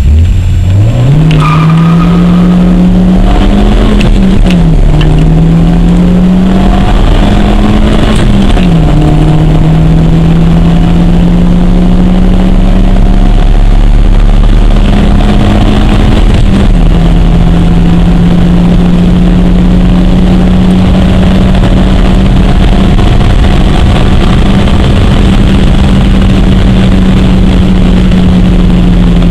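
Honda Civic 1.6-litre 16-valve VTEC four-cylinder engine, with stock intake and exhaust, under full-throttle acceleration from a standstill, heard from inside the cabin. The revs climb steeply, drop at about 4 and 9 seconds as gears are changed, dip again at about 16 seconds, then hold high and steady.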